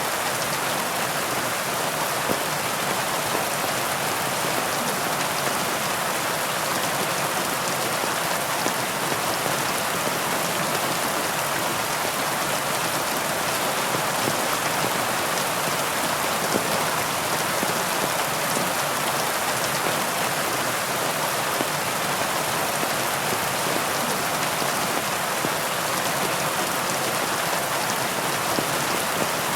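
Heavy rain falling steadily, an even hiss of many drops with faint scattered patters and no let-up.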